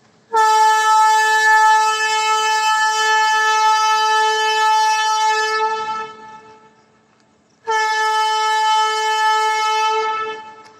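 Train locomotive horn sounding two long steady blasts, the first about five seconds long and the second a little under three, as the Unchahar Express sets off from the station.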